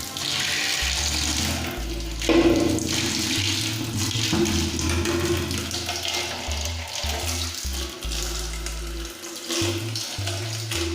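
Water spraying and splashing as a window air conditioner is washed during servicing, under a steady hum, with background music.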